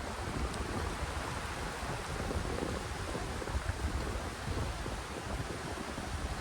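Strong wind buffeting the microphone with a low, uneven rumble, over a steady hiss of wind and rain.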